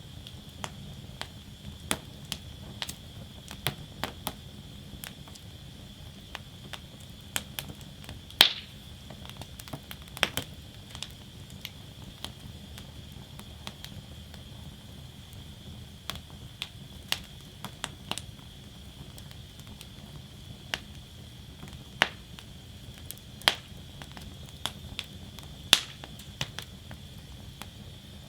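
Wood fire burning in a fire basket, crackling: irregular sharp pops and snaps, a few much louder than the rest, over a steady low rush of flame.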